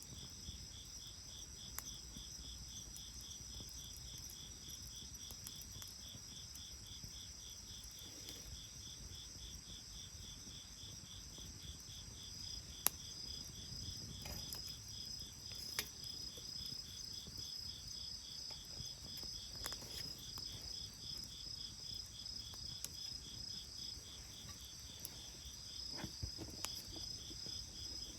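A steady night chorus of chirping insects, the chirps pulsing rapidly and evenly, with a few sharp pops scattered through it, the loudest about 13 seconds in.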